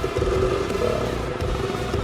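Off-road motorcycle engine running at a steady speed, with wind buffeting the microphone.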